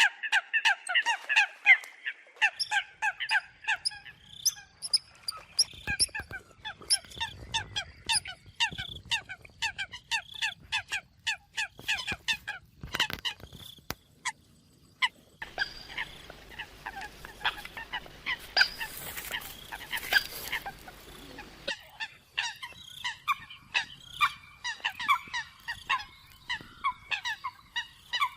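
Eurasian coots calling: many short, sharp notes repeated several times a second, as on a recorded lure call. Partway through, the calls thin out over a stretch of steady hiss, then pick up densely again.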